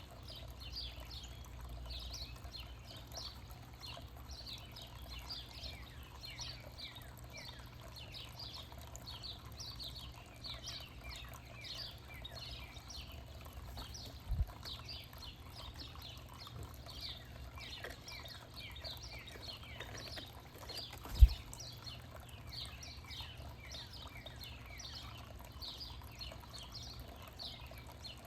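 Many small birds chirping all the time, short downward chirps overlapping into a busy chorus. There is a steady low rumble underneath, and two sudden low thumps come about 14 and 21 seconds in; the second is the loudest sound.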